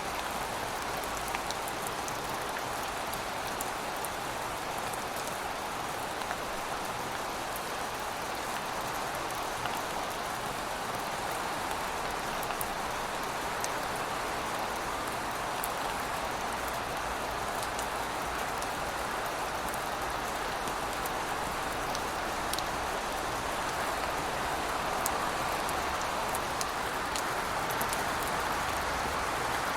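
Steady, continuous rainfall, with scattered individual drop ticks on top of the even hiss of the rain.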